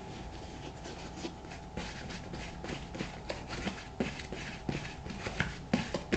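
Shoe cream being rubbed into leather boot uppers in short back-and-forth strokes, about three a second, growing louder and brisker in the second half.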